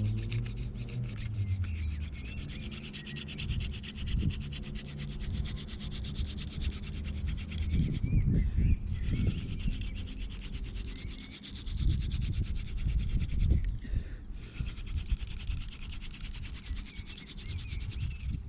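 Hand-drill fire by friction: an elder spindle spun between the palms, grinding into an ivy hearth board with a fast, steady scraping rub to build up hot dust for an ember. The rubbing breaks off briefly twice, about eight and fourteen seconds in, and low rumbling runs underneath.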